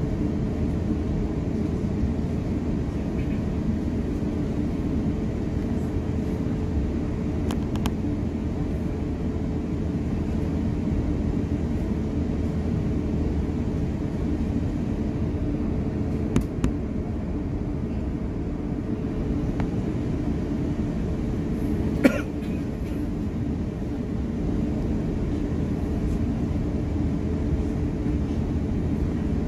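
Steady low rumble of cabin noise inside an Airbus A350-900 airliner, with a steady hum running under it. A few brief clicks break through, the sharpest about two-thirds of the way in.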